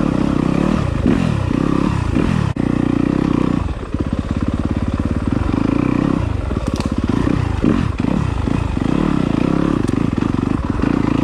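Yamaha enduro dirt bike engine revving up and down over and over as it picks its way over rocks, its pitch rising and falling every second or so, with a few clacks from the rocks.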